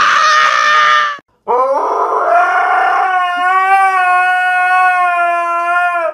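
A loud squeal that cuts off about a second in, then a husky howling: one long call that rises at its start and then holds steady.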